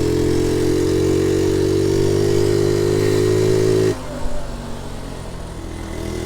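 Honda Z50 J1 Monkey bike's small four-stroke single-cylinder engine pulling steadily under throttle. About four seconds in, the throttle is shut and the note drops suddenly to a quiet burble. It picks up again at the very end.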